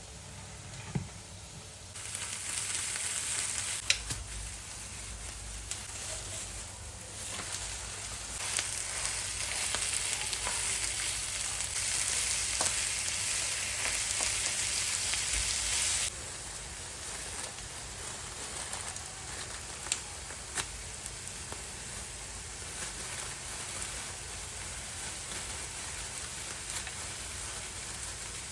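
Food sizzling as it fries in hot oil in a pan, with a few sharp clicks. The sizzle grows louder about two seconds in and drops back suddenly at about sixteen seconds.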